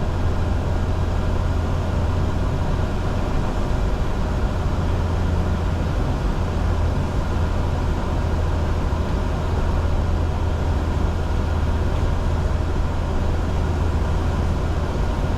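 Steady cockpit noise of a Bombardier Challenger 605 business jet in the climb at climb thrust, with air rushing over the fuselage and the engines humming. A strong low drone runs under a few faint steady tones, and the level does not change.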